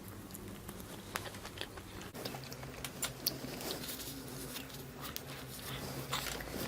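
A person chewing and biting grilled barbecue skewer food, with irregular small clicks and crunches, over a faint steady low hum.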